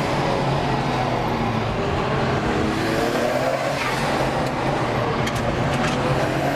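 Performance car engine revving hard, its pitch rising and falling several times as the car accelerates and lifts through corners, heard from inside the moving car. A few sharp pops come near the end.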